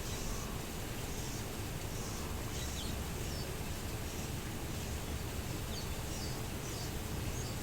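Birds chirping outdoors: short, high chirps and quick falling notes, scattered through, over a steady background rumble.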